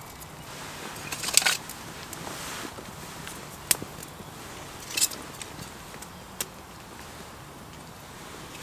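Wood campfire burning with a steady soft hiss and scattered sharp crackles and pops: a quick cluster about a second and a half in, then single pops every second or so.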